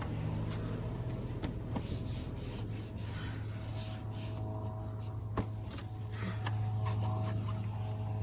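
Rubbing and scraping with a few sharp clicks, over a steady low hum.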